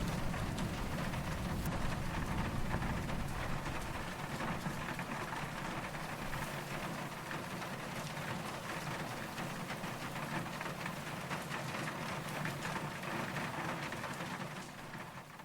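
Steady rain falling in a dense, even patter. A low rumble of distant thunder under it in the first few seconds dies away. The sound dips briefly right at the end.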